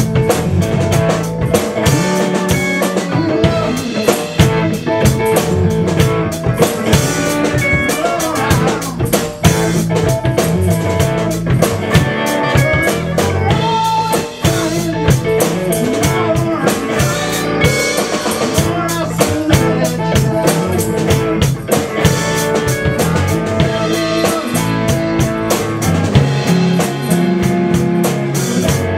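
A band playing a song: a drum kit with bass drum and snare keeps a steady beat under guitar.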